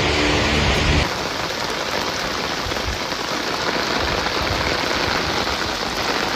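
Heavy typhoon rain pouring down as a steady, dense hiss, with a low hum under it for the first second that stops abruptly.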